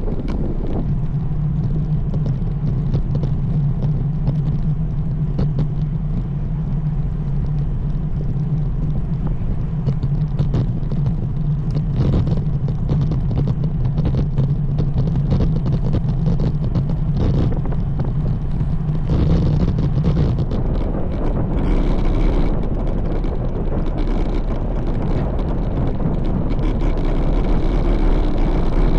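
Wind rushing over the microphone of a road bike riding at speed, with a steady low hum that stops about two-thirds of the way through.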